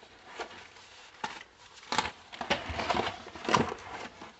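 Packaging being handled while someone searches a cardboard box: a string of short knocks and clicks with some rustling between them.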